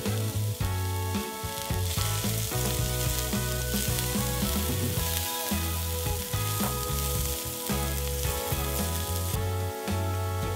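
Diced onion sizzling in hot oil in a frying pan as it is stirred with a silicone spatula. The sizzle grows louder about two seconds in and eases near the end, over background music.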